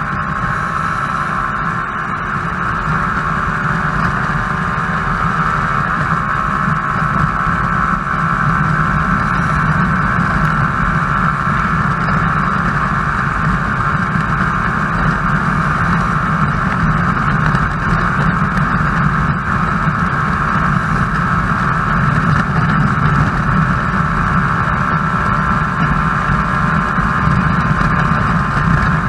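Yamaha YZF-R15 motorcycle's single-cylinder engine running steadily under way, a constant drone with no change in pitch.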